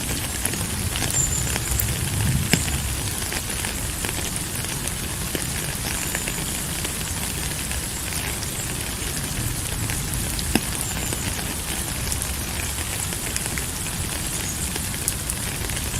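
Steady rain falling: a continuous hiss with scattered sharp drop ticks and a low rumble underneath.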